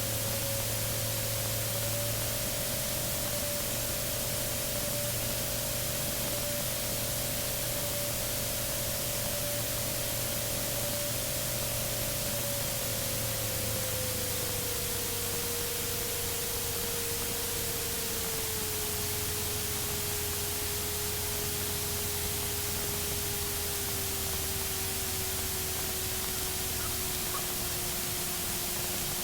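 Steady hiss of an aircraft headset and intercom audio feed. Under it is the faint tone of the Remos GX's engine, which drops gradually in pitch through the second half as the engine slows.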